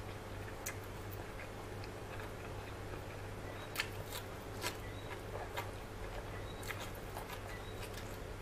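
Close-miked eating sounds: a person biting and chewing curry-coated raw greens, giving scattered sharp crunchy clicks and wet mouth clicks, the loudest about four seconds in, over a steady low hum.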